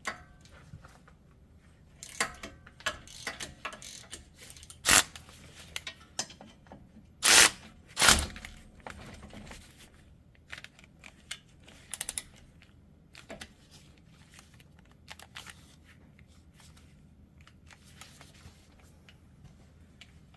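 Hand tools working loose a hub bearing mounting bolt: scattered metallic clicks and clanks of a socket wrench, with three louder short bursts about five, seven and eight seconds in, then sparser clicks.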